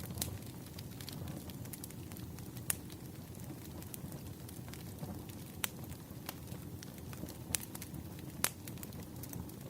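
Wood fire burning in a fireplace: a steady low rumble with irregular sharp crackles and pops, a few louder snaps scattered through.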